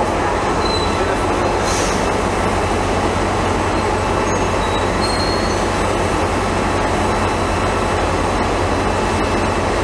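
A train moving in a station: a loud, steady rumble and rush with a deep hum underneath, and a few brief, faint high wheel squeals.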